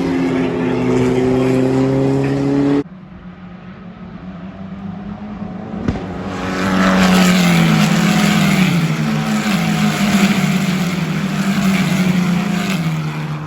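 Racing car engines heard trackside, in clips joined by cuts. First comes a loud engine note, rising slowly in pitch, that cuts off suddenly about three seconds in. A quieter engine sound then builds up, followed from about six seconds by a loud pass with the engine pitch falling in steps.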